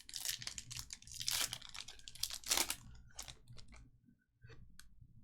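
Trading card pack wrappers crinkling and tearing as packs are opened and handled: irregular rustles, busiest in the first three seconds and thinning out toward the end.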